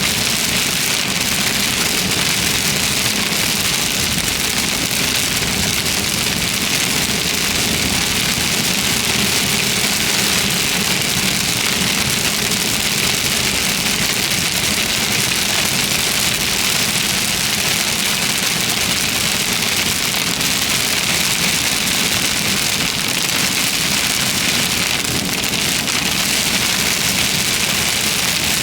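Heavy rain hitting a vehicle during a severe thunderstorm, a steady loud hiss, with the car's engine and road noise running faintly underneath.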